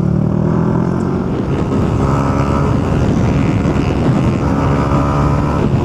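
Motorcycle engine running steadily at road speed, heard through a helmet-mounted camera.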